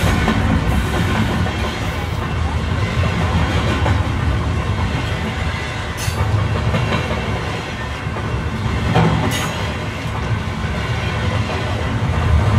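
A train running along its track with a steady, loud rumble and a clatter of wheels, and two sharp clicks about halfway through and again three seconds later.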